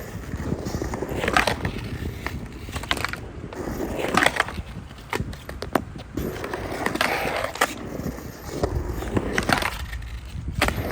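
Skateboard rolling on a concrete mini bowl, its wheels rumbling steadily, with several sharp clacks and short scrapes as the trucks hit and grind the coping in 50-50 stalls and grinds.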